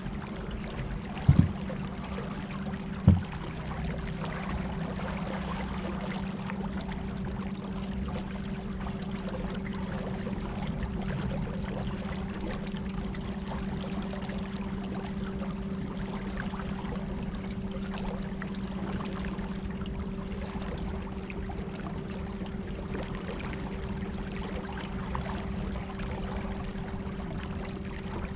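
Electric trolling motors humming steadily at one even pitch, with water rushing and trickling against the craft. Two sharp knocks come in the first few seconds.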